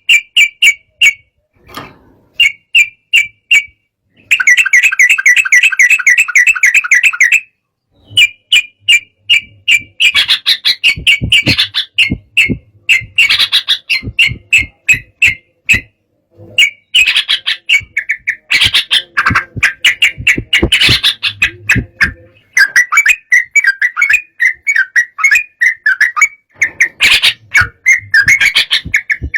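Yellow-vented bulbul (trucukan) singing in loud bursts of rapid, bubbly chirps with short pauses between them: the agitated, fired-up song of a bird provoked by a rival.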